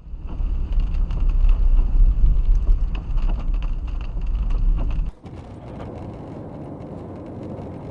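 Vehicle driving noise, a loud low rumble with scattered knocks and clicks. About five seconds in it cuts abruptly to a quieter, steady noise with clicks.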